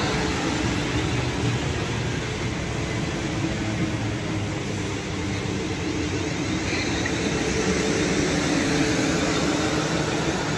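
South Western Railway Class 450 Desiro electric multiple unit running past along the platform, its carriages giving a steady running noise of wheels on rail.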